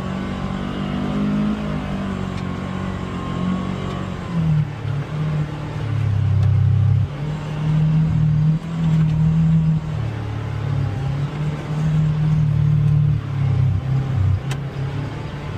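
Polaris Xpedition UTV engine running as it drives the trail, its revs rising and falling repeatedly as the throttle is worked.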